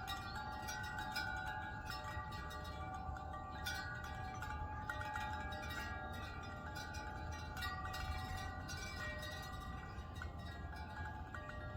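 Wind chimes ringing in a breeze, struck irregularly, with many overlapping tones ringing on. Under them runs a low, steady rumble of wind.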